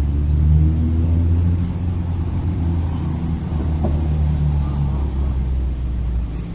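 An engine running steadily at low pitch, with a faint hum of a few held tones above it.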